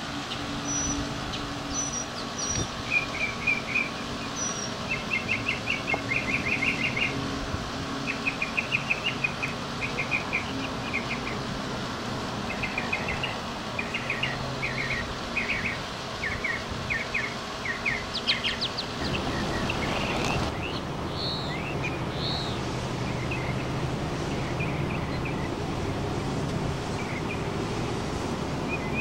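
Songbirds chirping in quick repeated trills over a steady low hum. About two-thirds of the way in, a louder steady rushing noise comes up, and fewer, fainter chirps continue over it.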